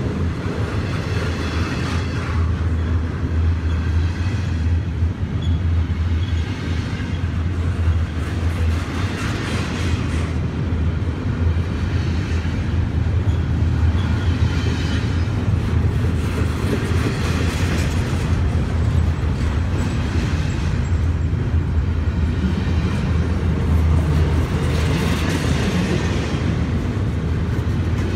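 Double-stack intermodal well cars of a freight train rolling past: a steady rumble of steel wheels on rail, with a louder surge every few seconds as each set of wheels goes by.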